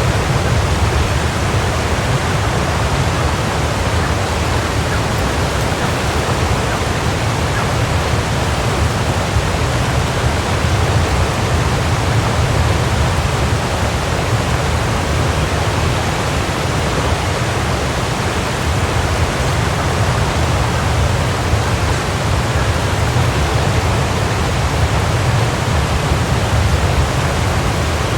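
Waterfall: water falling and crashing in a steady, dense rush with a heavy low rumble.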